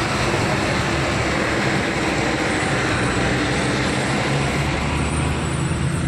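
Loud rush of wind and road noise in a moving car, over the low hum of its engine. The rush starts and stops abruptly.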